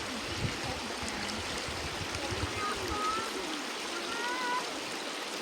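Running water of a stream: a steady rushing hiss, with a few faint short whistle-like tones about three and four seconds in.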